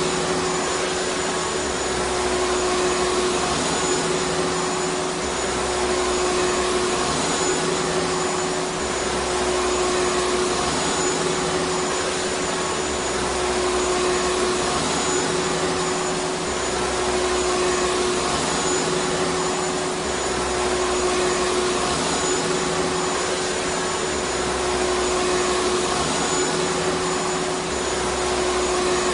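Vacuum cleaner motor running steadily: a continuous rushing whoosh of air with a steady hum underneath.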